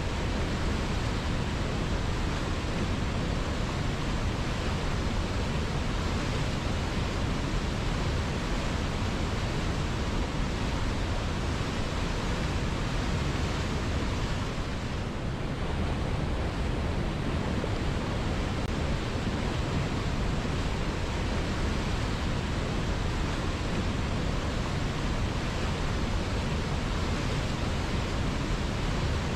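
River water flowing, a steady rushing noise that eases slightly for a moment about halfway through.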